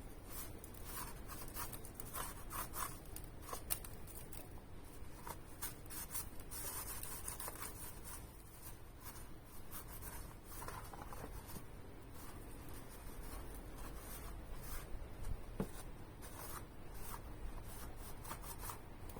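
Short, irregular rubbing and scraping strokes of hand cleaning work on a motorcycle part, with one small click about three-quarters of the way through.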